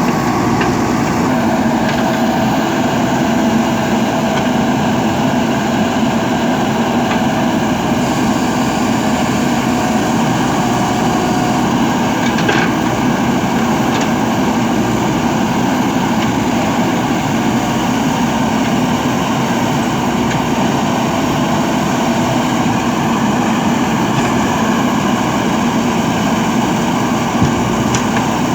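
Diesel engine of heavy machinery running steadily at an even speed, with a few faint knocks.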